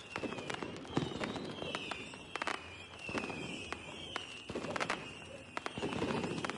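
Fireworks going off: many sharp pops and crackles over dull rumbling bursts every second or two. A high warbling tone repeats about once a second.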